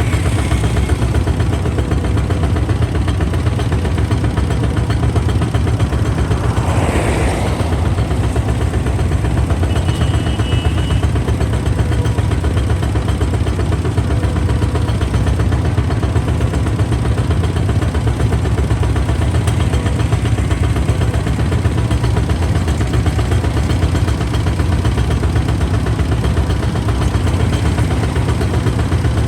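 Kubota ZT155 DI single-cylinder diesel engine running steadily, with a brief falling noise about seven seconds in.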